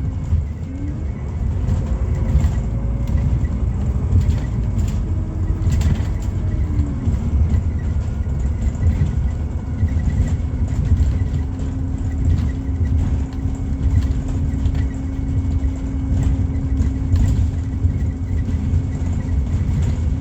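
Scania Citywide LFA city bus under way, heard from inside, with its Scania OC09 compressed-natural-gas engine and ZF gearbox running. There is a steady low rumble and a whine that rises and falls a few times before holding steady in the second half, with scattered rattles and knocks from the body.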